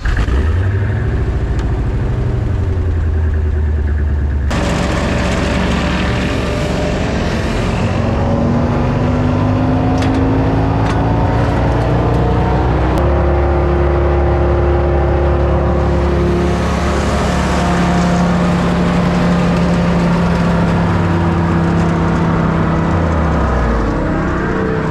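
Wood chipper's engine running just after a cold start, revved up to spin the cutting drum, which is being checked for freezing in the snow. Its pitch climbs about eight seconds in, holds, and drops back near the end.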